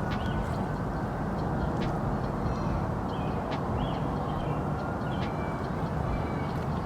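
Steady background rumble with a few faint short chirps and small clicks.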